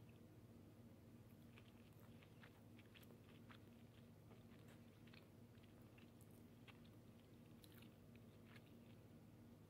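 A person chewing food, heard faintly as scattered small wet mouth clicks over a steady low hum.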